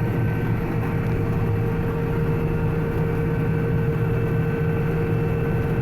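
John Deere 9750 STS combine running steadily under load while harvesting wheat, heard from inside the cab: an even low drone with a constant tone held above it.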